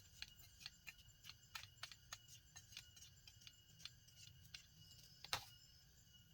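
Faint scattered clicks and light taps, with one sharper click about five seconds in, over a faint steady high-pitched hum.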